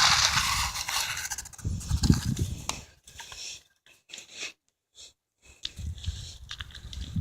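Wind buffeting and rubbing on a phone's microphone while riding a bike: a noisy rush with low rumble, then gusts that drop almost to silence for a couple of seconds in the middle before the rumble returns.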